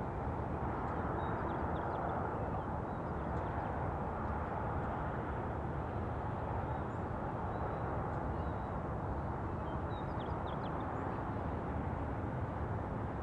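Outdoor field ambience: a steady low rumble, with faint, short high-pitched bird calls a few times near the start and again about ten seconds in.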